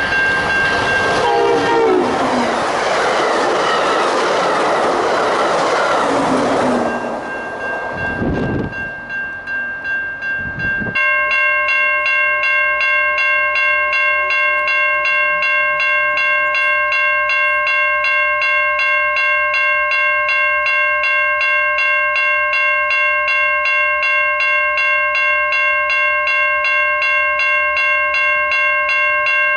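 Amtrak Hiawatha passenger train sounding its horn, which breaks off about two seconds in, then rushing past with loud wheel and wind noise that fades after about seven seconds. From about eleven seconds on, a railroad crossing bell rings steadily and evenly, warning of an approaching train.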